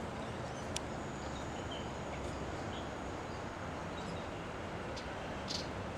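Steady low outdoor rumble with a few faint, short, high bird chirps and a couple of small clicks.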